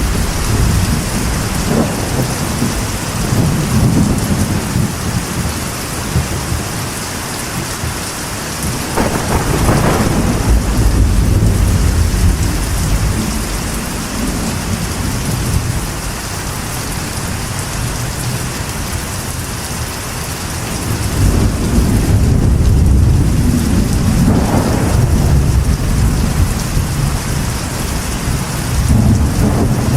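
Steady rain drumming on a metal roof, with rolls of deep thunder rumbling several times, the longest about two-thirds of the way through.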